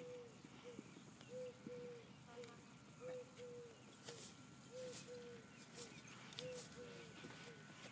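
Faint bird calls: short, low notes, mostly in pairs, repeating about every second and a half. A few faint clicks around the middle.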